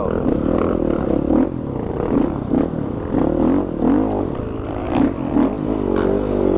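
Dirt bike engine revving hard on a climb, its pitch rising and falling again and again as the throttle is worked, with some rattling of the bike.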